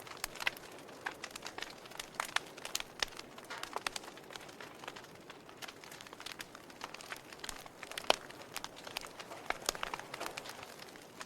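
Wood fire burning in a fireplace: irregular crackles and pops from the burning logs over a soft hiss, with one sharper pop about eight seconds in.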